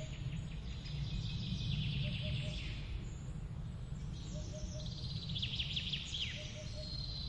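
Songbird singing repeated trilled phrases of quick, falling high notes, three phrases a couple of seconds apart, over a steady low background rumble.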